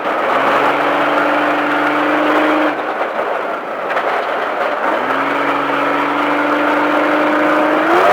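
Off-road race truck's engine under throttle: it climbs in pitch and holds, lets off about two and a half seconds in, then climbs and holds again from about five seconds in, over a steady rush of tyre and wind noise.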